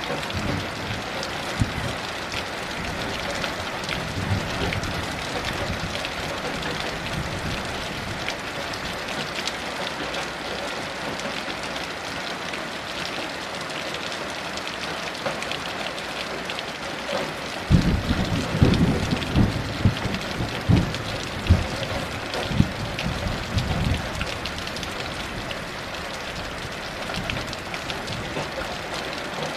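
Heavy rain falling steadily. About eighteen seconds in, a roll of thunder breaks in with a sudden low rumble and several cracks, lasting about six seconds before the rain carries on alone.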